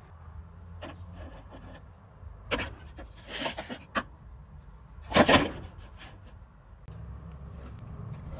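Rusty steel axe head being handled on a screwdriver and in plastic tubs: a few short scrapes and knocks, the loudest about five seconds in.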